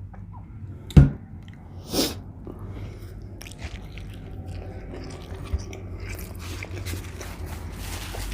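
Close-miked chewing of a McDonald's meal: mouth sounds of biting and chewing, with a sharp loud click about a second in and a short noisy burst a second later.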